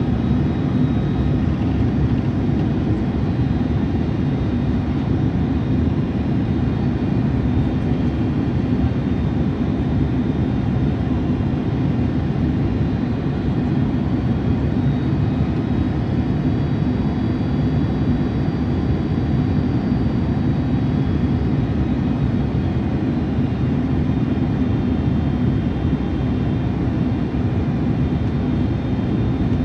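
Steady jet airliner cabin noise in flight: engines and rushing air make a low, even drone with a faint steady hum through it.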